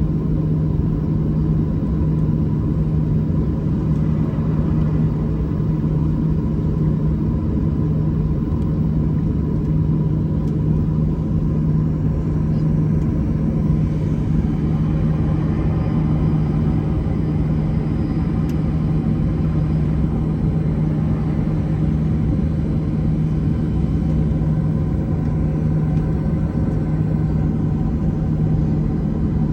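Steady engine or machinery drone with a constant low hum, unchanging in level and pitch.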